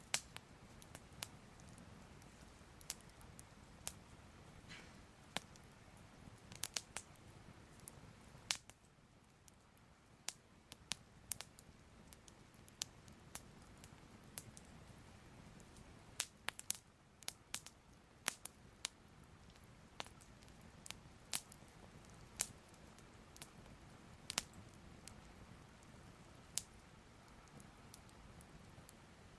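Soft crackling fire: irregular sharp pops and snaps, a few to several a second, over a faint low rumble.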